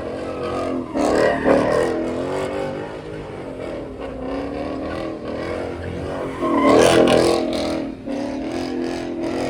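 Car engine revving hard, its pitch rising and falling, with louder surges about a second in and again around seven seconds.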